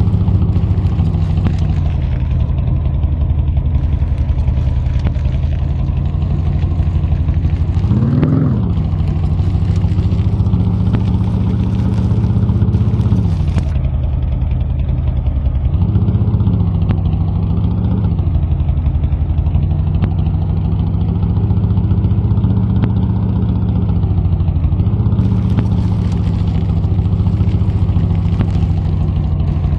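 Army truck's engine running steadily under load, revving up and dropping back several times, the sharpest rev about eight seconds in.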